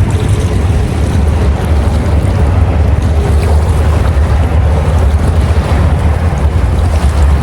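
Wind buffeting the microphone: a steady, loud, deep rumble with a rushing hiss over it.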